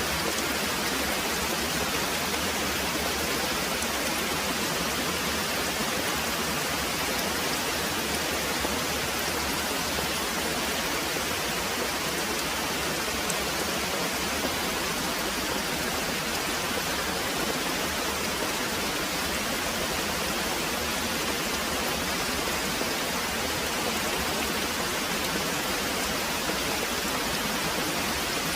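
Very heavy rain pouring steadily: a dense, even hiss with no breaks and no thunder.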